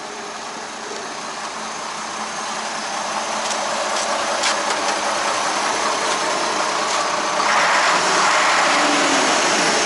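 DAF 95 ATI 400 truck's six-cylinder diesel engine running, growing steadily louder, with a further jump about three quarters of the way through.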